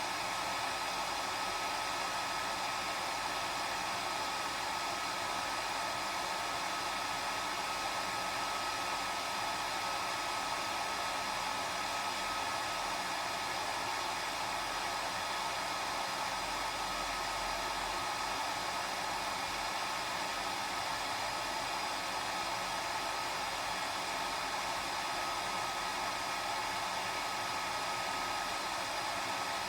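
Hair dryer running continuously: a steady rush of blown air with a thin, constant whine above it, never changing in level or pitch.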